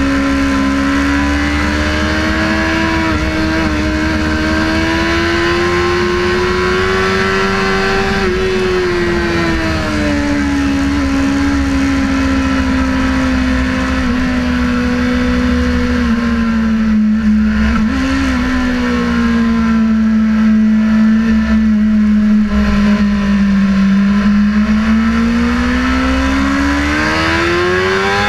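Sportbike engine running hard on a racetrack, heard from on board. Its pitch climbs for the first several seconds, sinks slowly through the middle, and climbs again near the end.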